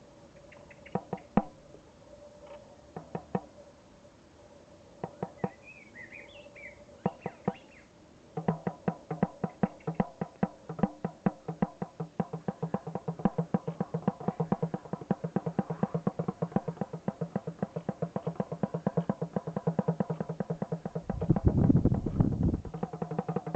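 Hand drumming: a few scattered single strikes, then a fast, even rhythm of pitched drum strokes that carries on and grows louder near the end.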